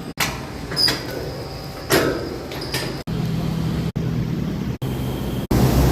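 Motor vehicle engine and road noise, with a few sharp knocks or rattles, heard in a string of short clips that cut off abruptly several times.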